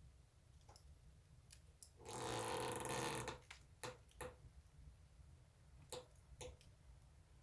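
Wood fire in a fireplace crackling quietly with a few sharp pops, and a louder hissing burst of about a second and a half starting about two seconds in.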